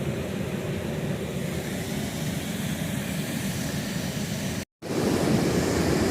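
Steady rush of flowing creek water. It cuts out for an instant a little over four seconds in, then comes back a bit louder.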